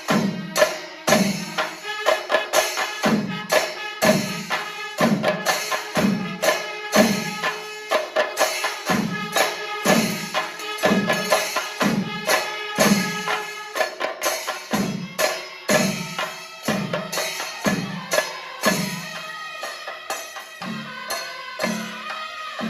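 Kerala temple percussion ensemble (chenda melam): drums beating a slow steady pulse of about one heavy stroke a second, with lighter strokes between and ringing cymbals over them. It gets a little softer near the end.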